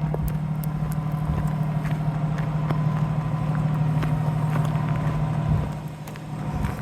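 A motor vehicle's engine idling: a steady low hum that eases off a little near the end, with a few faint clicks over it.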